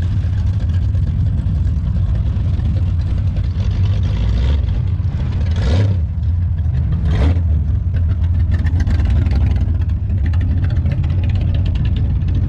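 Car engine running loudly with a deep, steady rumble, revved sharply twice, about six and seven seconds in.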